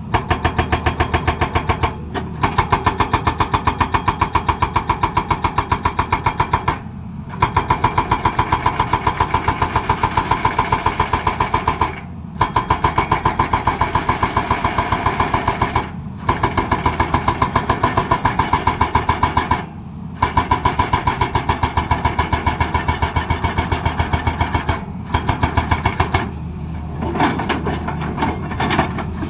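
Hydraulic rock breaker on a Tata Hitachi excavator hammering with rapid, even blows, in runs of several seconds broken by short pauses about every four to five seconds; the excavator's diesel engine keeps running underneath through the pauses.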